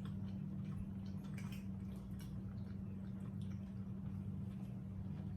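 Quiet eating at the table: scattered light clicks and soft wet, squishy mouth and food sounds over a steady low electrical hum.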